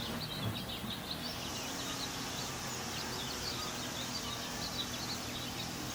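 Birds chirping: many short, high notes in quick succession over a steady background hiss.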